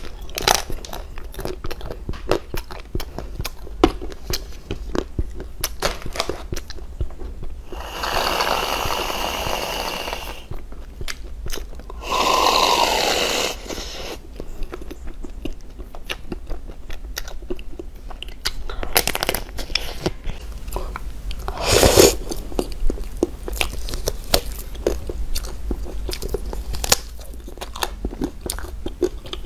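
Crisp bites and chewing of hard mahjong-tile-shaped sweets, with many short crunches. An aerosol whipped-cream can sprays twice, about 8 and 12 seconds in, each spray a hiss of a second or two.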